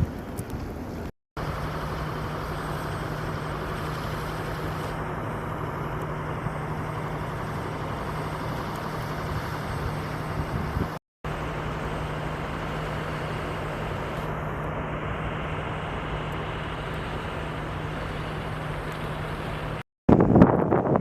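A motor running steadily, a constant low hum under an even hiss, with no change in pitch. The sound drops out abruptly for a moment about a second in, again about halfway through and near the end.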